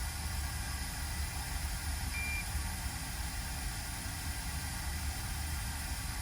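Steady low electrical hum and hiss from repair-bench equipment, with one short high beep a little after two seconds in.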